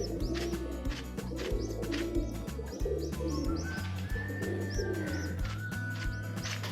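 Pigeons cooing, with repeated short, high, rising cheeps, over background music with a steady low bass and a held melody note that comes in about halfway through.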